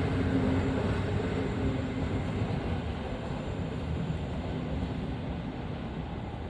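Passenger train's coaches rolling past on departure, a steady noise of wheels on rail that slowly fades as the train moves away.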